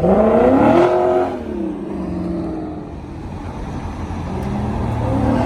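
Lexus RC F's V8 through a Borla cat-back exhaust, revving hard under acceleration: the note jumps in loud and climbs for about a second, drops away as the throttle lifts, then builds again near the end.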